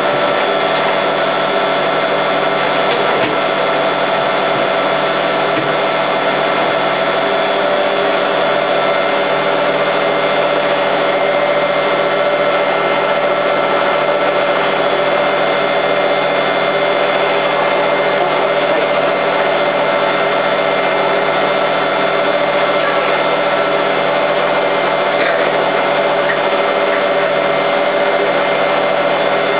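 Hoover Time Manager H130E washing machine spinning at a steady high speed: a constant motor and drum whine that holds one pitch throughout.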